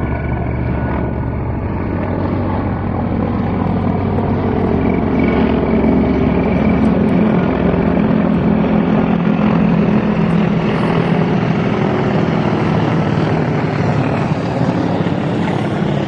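Low-flying helicopters passing close by: the rapid beat of rotor blades over the drone of turbine engines, getting a little louder toward the middle.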